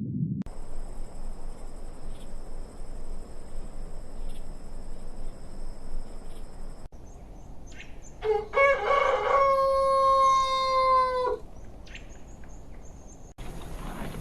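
A rooster crowing once: a call of about three seconds that starts broken, then holds and drops in pitch at the end. It follows several seconds of background noise with two steady high-pitched tones, and the audio cuts abruptly between segments.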